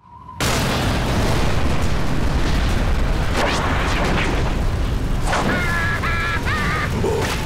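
Cartoon sound effect of a loud, rumbling boom that bursts in suddenly and keeps going as a steady, heavy roar, with a few short squeaky cartoon-voice cries near the end.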